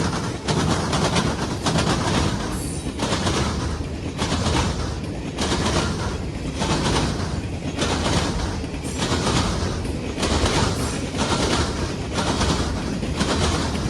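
Railroad cars rolling past at close range, their wheels clattering over the rail joints in a regular beat about once every second or so, over a steady rumble.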